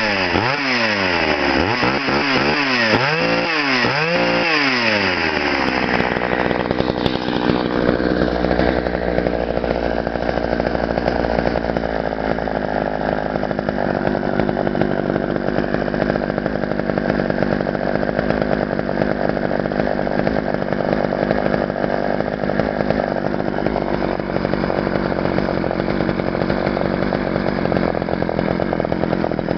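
Homelite 245 two-stroke chainsaw revved up and down about four times. About six seconds in it drops back to a steady idle.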